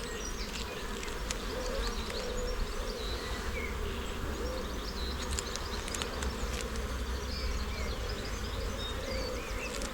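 Honey bees buzzing steadily around an open hive, a dense swarming hum with many wavering pitches, with a few light clicks.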